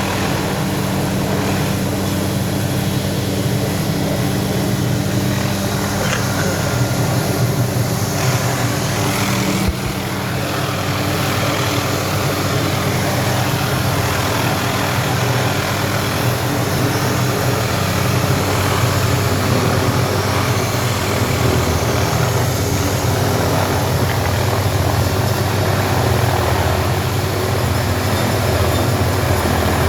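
Steady drone of a helicopter's engine and rotor, with a brief knock and dip about a third of the way through.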